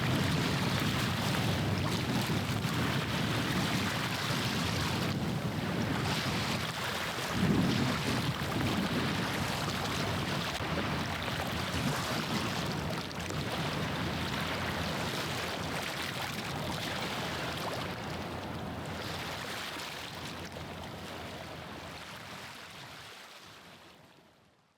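Wind rushing over the microphone with waves washing at the shoreline and a low rumble, swelling briefly about a third of the way in, then fading out near the end.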